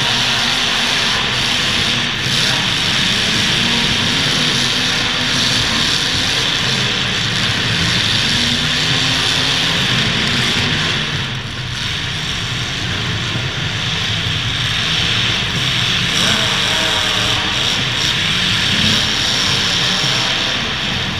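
Engines of several full-size demolition derby cars running and revving loudly, their pitch rising and falling, with a brief drop in level about halfway through.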